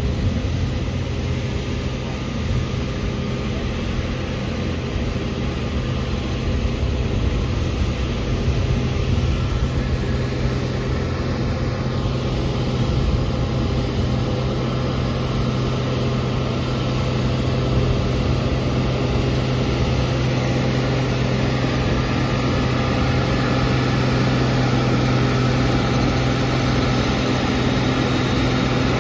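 Heavy tractor engine running steadily at an even pitch, growing slowly louder.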